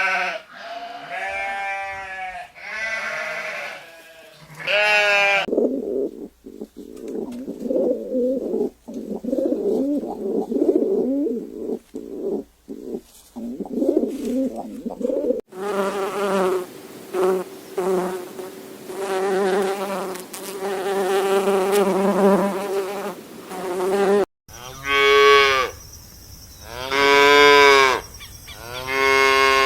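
Farm animals calling in a string of short clips cut together: repeated pitched calls, with a long drawn-out call in the middle and two separate arching calls near the end.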